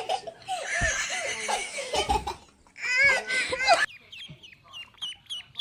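A child laughing and squealing, then from about four seconds in a quick run of short, high, falling bird peeps.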